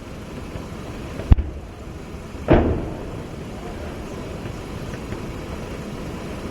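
Two single live-fire weapon reports over a steady low rumble: a sharp crack about a second in, then a heavier blast about two and a half seconds in that rings on for about half a second.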